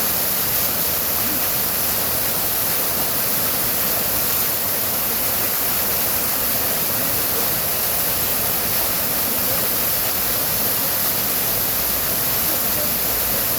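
Waterfall: water falling and splashing in a steady, unbroken rush of hiss.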